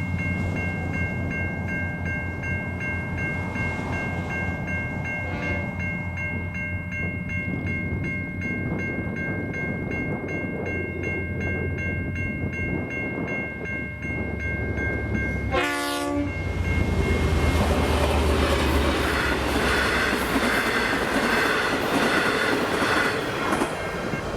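Safetran Type 3 electronic level-crossing bell ringing steadily over the low drone of an approaching diesel train. A short horn blast comes about two-thirds of the way in, then the train passes the crossing with loud wheel and rail noise.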